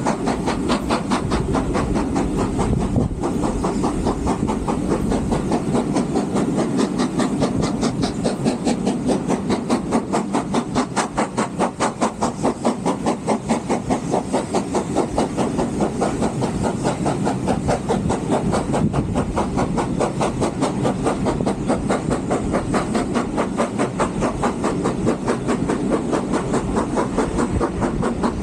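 Steam train running, heard from on board: a fast, steady rhythm of beats over a continuous rumble and hiss.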